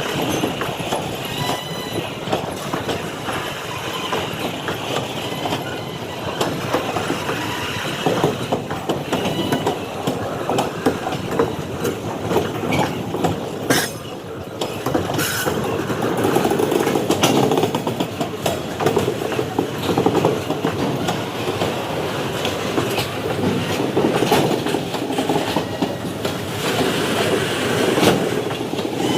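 Indian Railways freight train wagons rolling past, a steady rumble with a continuous clatter of wheels over rail joints, getting somewhat louder about halfway through.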